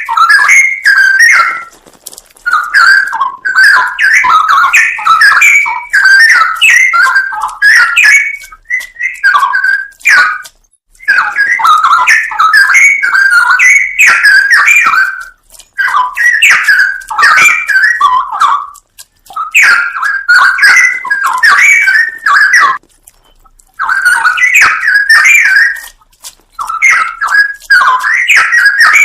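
Straw-headed bulbul (cucak rowo) singing loud, rich warbling phrases of a few seconds each, separated by short pauses.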